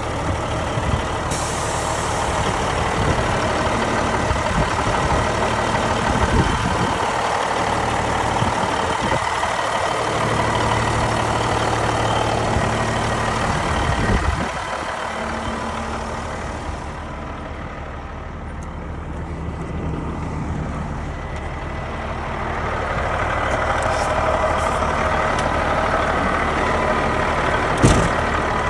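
Caterpillar 3406B diesel engine of a 1991 International Eagle dump truck running. It drops in level about halfway, then rises again, and there is a single sharp knock near the end.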